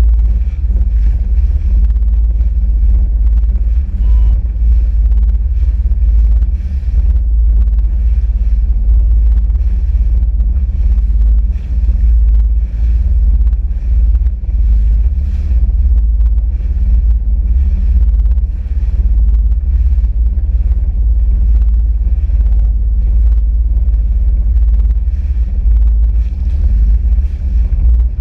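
Sea-Doo RXP-X 260 jet ski running under way, a loud, steady, heavy rumble with some wind on the microphone.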